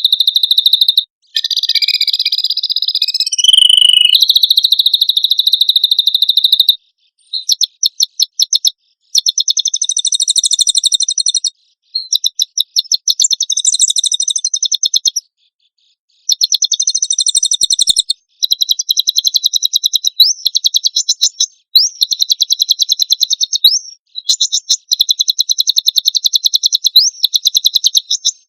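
A songbird singing very fast, high-pitched trills in bursts of a few seconds with short pauses between them. The notes run together into rapid-fire rattles and rasping phrases, the kind of song kept as training material for cage songbirds.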